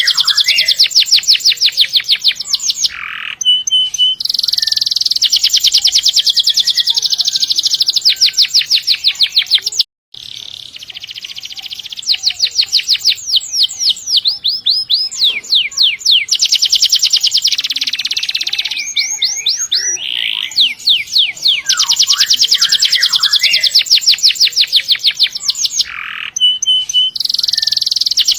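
Domestic canary singing long, rapid trilling rolls of high repeated notes, each roll lasting several seconds with short breaks between them. The sound drops out for a moment about ten seconds in.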